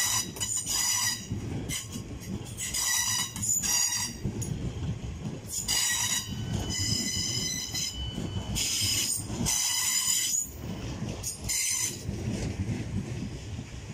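Pair of Class 450 electric multiple units running past over the rails with a steady low rumble, the wheels squealing high-pitched several times, on and off.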